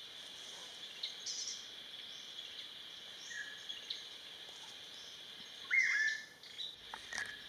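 Buff-throated babbler calling: scattered short high notes, then a loud clear call about six seconds in that sweeps up and holds, with a couple more notes near the end. A steady high drone runs underneath.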